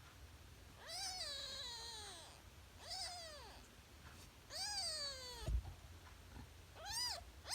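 Three-day-old kitten mewing: four high-pitched cries, each falling in pitch, the first the longest. A brief thump comes just after the third cry.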